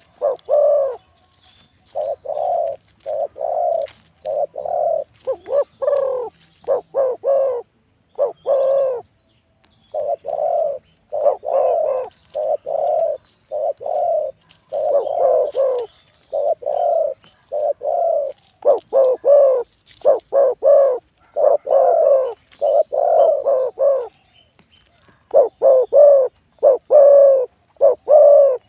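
Spotted doves cooing: loud, deep coos repeated in quick phrases, with short pauses between phrases.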